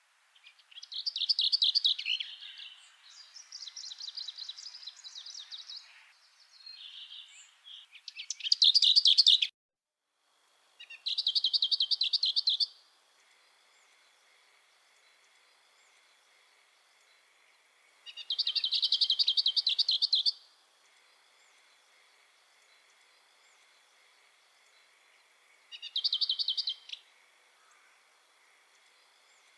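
A songbird singing short, rapid trilled phrases, each a second or two long, repeated several times with pauses of a few seconds between them. A faint steady high tone runs underneath in the second half.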